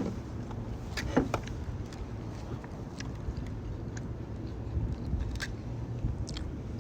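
Eating sounds while chewing a burger: a few short smacks and clicks, the sharpest at the start and about a second in, over a steady low hum.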